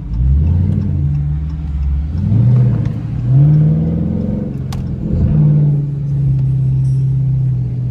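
Dodge Charger with an aftermarket Hellcat exhaust accelerating hard in sport mode, heard from inside the cabin: the engine note climbs and drops back at each upshift about three or four times, then settles into a steady cruise.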